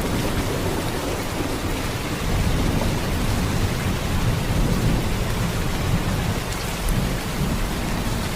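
Heavy rain pouring steadily: a dense, even hiss with a deep low rumble underneath.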